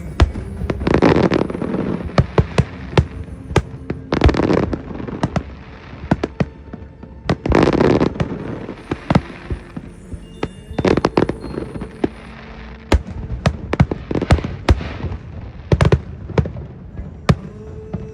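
Aerial fireworks display: a dense run of sharp bangs from bursting shells, with longer noisy bursts swelling up every three to four seconds.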